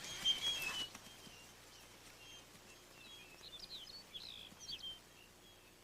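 Faint high-pitched chirps and short squeaky calls over a faint outdoor background: a few steady chirps in the first second, then a quick cluster of short sliding calls around the middle.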